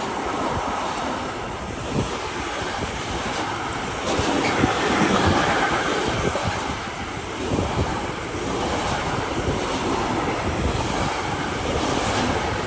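A train running past on the track, a steady rushing noise that grows a little louder about four seconds in, with wind buffeting the microphone.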